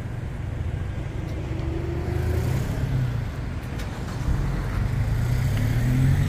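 Car engine running close by with a low rumble that grows louder toward the end, over a background of road traffic.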